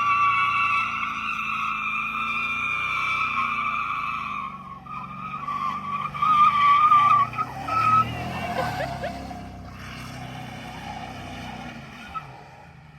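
Tires squealing in a burnout over a running engine. The squeal holds steady for about four seconds, then wavers and breaks up, and the sound fades away toward the end.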